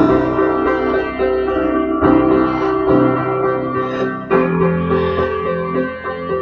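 Instrumental break in a song: chords strummed on an acoustic guitar, a new chord struck every second or two and left to ring.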